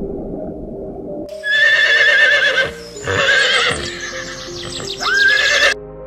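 Three loud, shrill animal calls with a quavering pitch, the first the longest and the last ending on a rising note, over soft background music.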